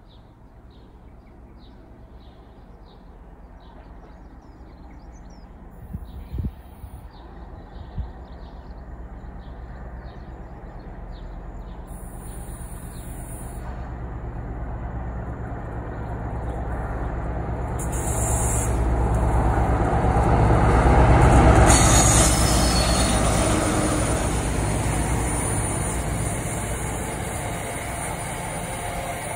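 Freight train of GBRf hopper wagons approaching through a cutting and passing close by: a rumble that grows steadily louder to a peak about two-thirds of the way through as the head of the train goes past, then stays loud as the wagons roll by.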